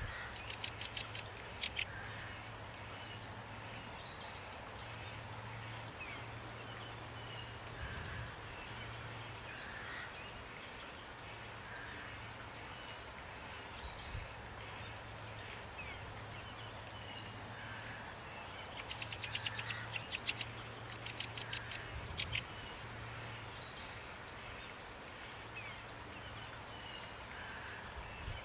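Songbirds calling over a steady hiss of rain: repeated high, falling chirps, with a fast trill near the start and another about two-thirds of the way through.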